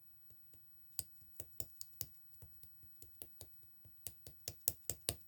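Yellow clear slime being squeezed and pressed by hand, making a string of sharp clicking pops from trapped air, about four a second, starting about a second in.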